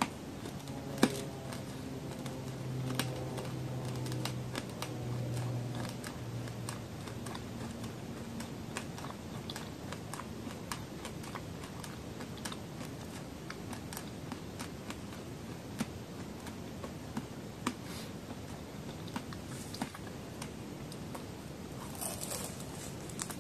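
Close-miked chewing of a hard candy-coated strawberry (ichigo ame): sharp, irregular cracking clicks as the sticky candy shell breaks between the teeth, with a closed-mouth hum for the first several seconds. Near the end comes a louder crunch as she bites into the candied fruit again.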